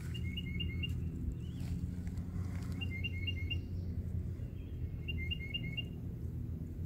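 A songbird calling: a short phrase of four quick double chirps, repeated three times about two seconds apart, over a steady low rumble.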